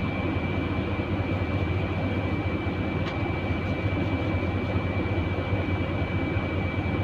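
Steady rumbling run of a truck engine with a thin, steady high-pitched whine over it; a brief click about three seconds in.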